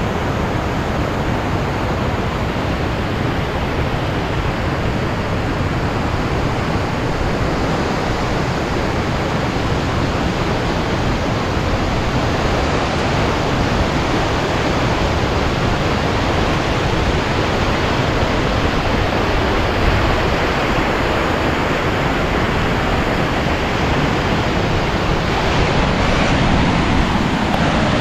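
Loud, steady rush of fast water from the Maligne River pouring through the canyon's narrow gorge.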